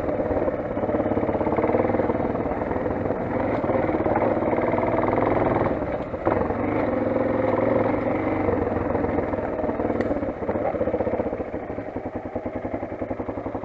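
Motoland XR 250 dirt bike's single-cylinder four-stroke engine running under way. There is a brief dip about halfway through, and the engine slows near the end, where its individual firing beats can be heard.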